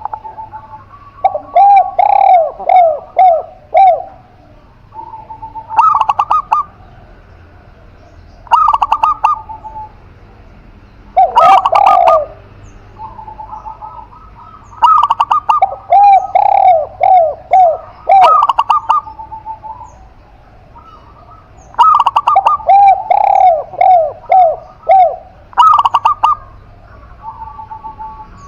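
Doves cooing: a spotted dove (tekukur) and a zebra dove (perkutut) calling in phrases of several short, arched coos. The phrases repeat every few seconds with brief pauses between.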